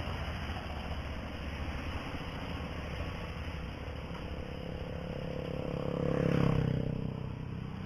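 Steady wind and riding noise on the microphone of a moving bicycle, with a motorcycle engine passing close by, swelling to its loudest about six and a half seconds in and then fading.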